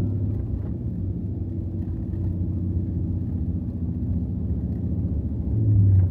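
Steady low drone of a 2024 Ram TRX on the move in snow, its supercharged 6.2-litre V8 and tyres heard from inside the cab. The drone swells briefly near the end.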